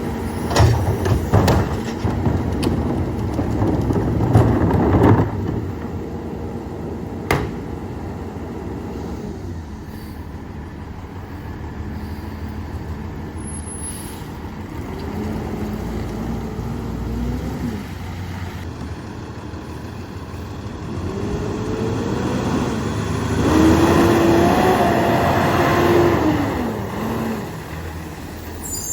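Peterbilt 348 rear-loader garbage truck with a Loadmaster body, its diesel running loud and rough, with metal clanks and knocks in the first few seconds. Later the engine revs up and a rising and falling hydraulic whine runs twice as the packer blade cycles and compacts the load.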